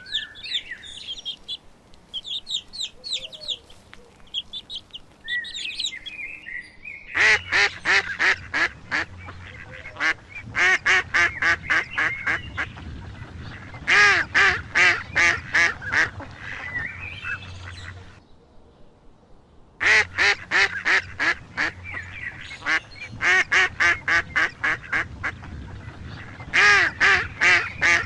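Ducks quacking in long, fast runs of loud calls, with a break of about two seconds midway. Higher, thinner chirping calls come before the quacking starts.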